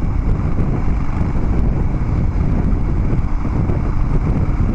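Harley-Davidson Dyna Street Bob V-twin running at a steady cruise through Vance & Hines Big Radius 2-into-2 pipes, mixed with wind buffeting on the microphone. Loud, even low rumble with no change in engine speed.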